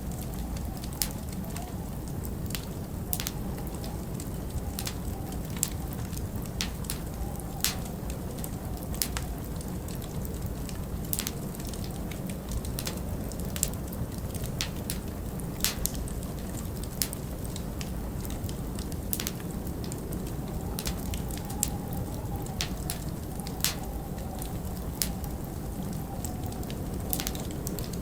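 Log fire crackling, with irregular sharp pops scattered throughout, over a steady low rumble of storm wind. A faint wavering wind whistle rises and fades now and then.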